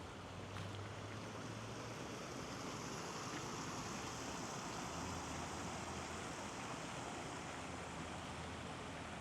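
Steady rushing of flowing river water, a continuous even noise.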